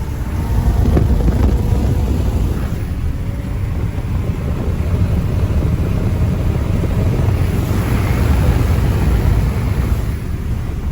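Twin-turbo Lamborghini running flat out at high speed. A steady low engine drone sits under a loud rush of wind buffeting the microphone through an open window.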